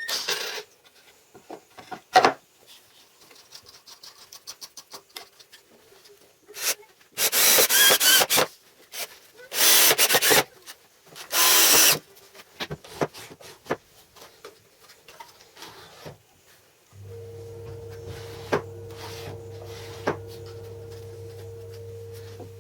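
Workshop tool work: scattered clicks and knocks, and three loud rasping bursts of about a second each near the middle. About three-quarters of the way in, the electric motor of a homemade band saw starts and hums steadily, cutting off at the end.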